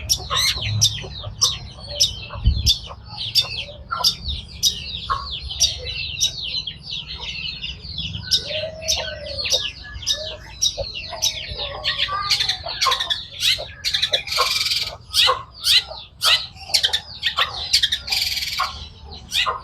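Long-tailed shrike (cendet) singing vigorously: a rapid run of sharp, high chattering notes, about two to three a second, broken by two harsh scratchy bursts in the later part, over a low rumble.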